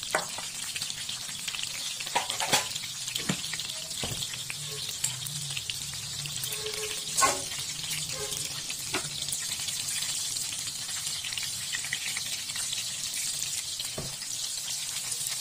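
Spring rolls sizzling steadily as they shallow-fry in bubbling oil in a pan, with a few sharp pops along the way, the loudest about seven seconds in.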